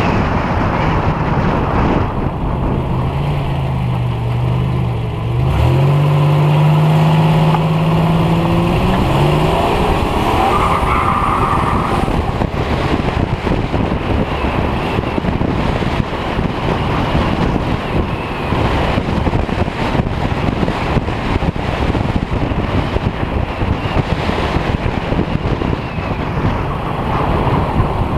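Buick Regal T-Type's turbocharged, intercooled 3.8-litre V6 accelerating, its pitch climbing for several seconds in the first third, with a brief higher whine at the top. For the rest, wind buffeting on the side-mounted camera's microphone and road noise cover the engine, which comes through steadily again near the end.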